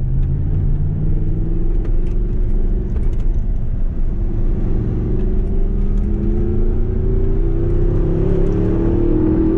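Audi R8 V10 engine heard from inside the cabin, pulling hard under acceleration, its revs climbing steadily through the gear.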